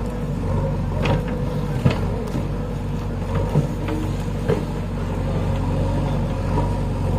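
JCB backhoe loader's diesel engine running steadily, with a few brief sharp knocks over it.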